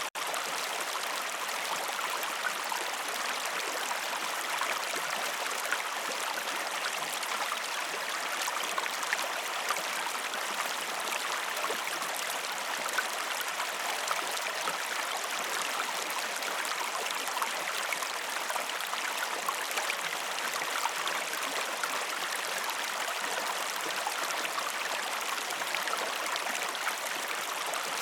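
Stream water flowing steadily: an even rush of running water with small trickling and splashing ticks through it.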